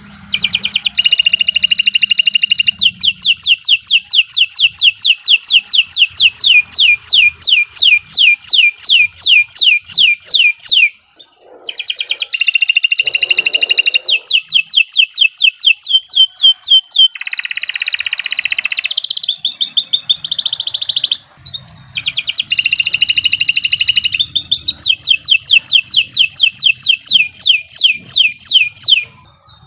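Domestic canary singing long, continuous song phrases: rolling trills of rapid, repeated downward-sweeping notes, with a few brief pauses and a denser warbling passage in the middle.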